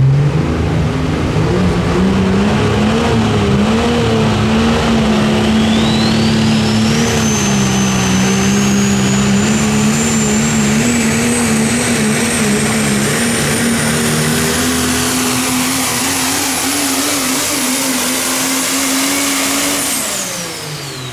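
Super stock diesel pulling truck running under full load, its engine note wavering, with a thin high whistle that climbs steadily in pitch through most of the run. About twenty seconds in, the engine shuts off and the whistle slides down as the turbocharger spools down at the end of the pull.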